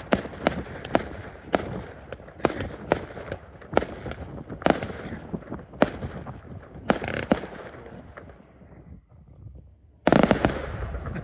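Fireworks going off: a rapid, irregular series of sharp bangs for about seven seconds that thins out and fades, then a loud burst about ten seconds in.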